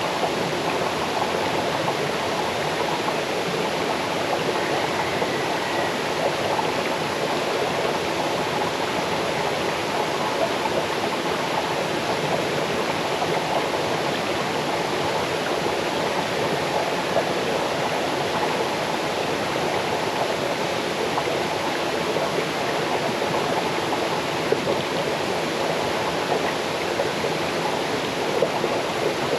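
Small forest waterfall and stream: water cascading over stones in a steady rush, strongest in the middle range, with a light babble.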